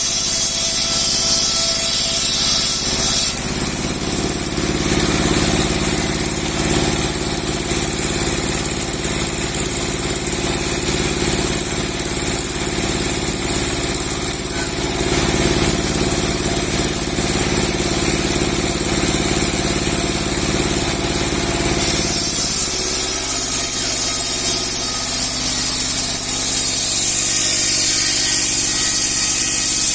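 A 30 hp log-sawing machine with a 60 cm steel blade running steadily at work on a large log. Its tone shifts about 3 seconds in and again about 22 seconds in.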